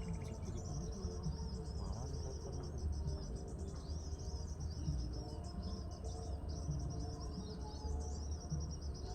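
Small birds twittering continuously in rapid, high chirps and trills, over a low steady rumble.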